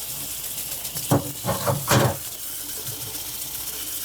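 Kitchen tap running hot water over plastic dishwasher filter parts being rinsed, a steady hiss. Three short, louder sounds come between about one and two seconds in.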